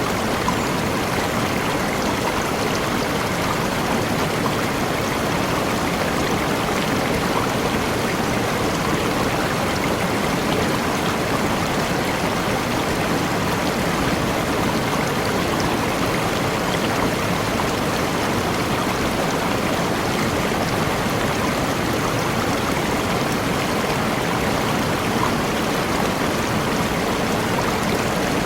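Waterfall in a tropical forest: water falling and splashing in a steady, unbroken rush.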